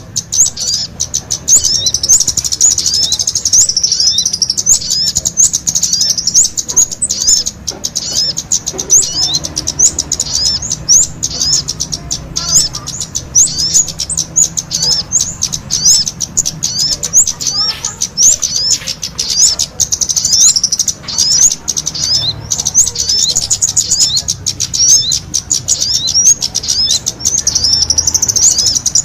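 Kemade and sogon songbirds singing together: a dense, unbroken stream of rapid high-pitched chirps and quick sweeping notes.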